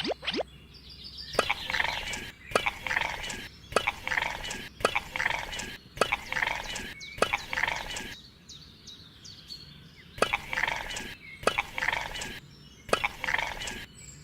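A short noisy sound with a click at its start, repeating about once a second, with a pause of about two seconds in the middle.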